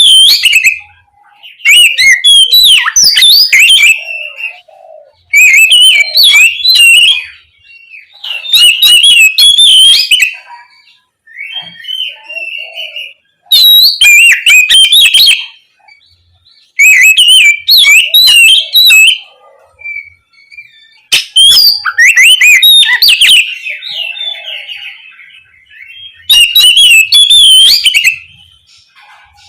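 Oriental magpie-robin singing loudly in full song, in phrases of rapid, varied whistles and warbles. There are about seven phrases, each lasting one and a half to two seconds, with pauses between them.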